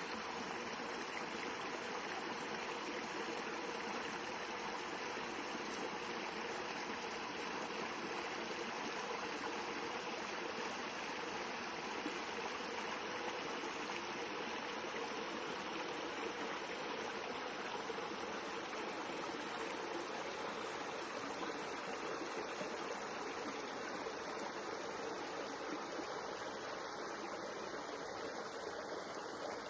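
Water flowing in a stream, a steady even sound with no breaks.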